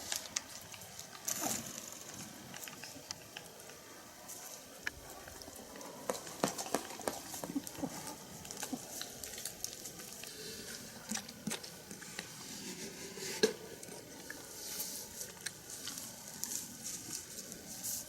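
Faint rustling with scattered small clicks and crackles, one sharper tick about two-thirds of the way through.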